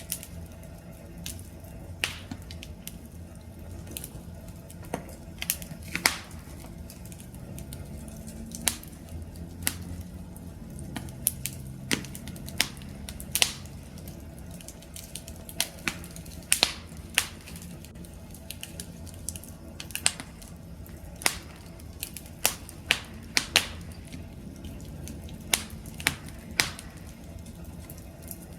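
Wood campfire crackling: irregular sharp pops and snaps, several a second at times, over a low steady rumble of the burning flames.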